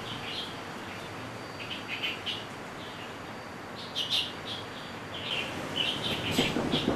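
Small birds chirping in short scattered bursts over steady background noise, with a low rumble starting to build near the end.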